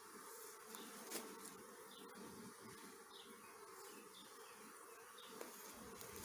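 Honey bees buzzing around an open Langstroth hive during an inspection: a faint, steady hum of many bees.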